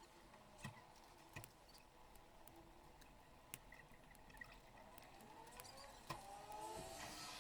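Faint city street ambience: a low hum with a few scattered sharp clicks, and a vehicle passing near the end, its pitch rising.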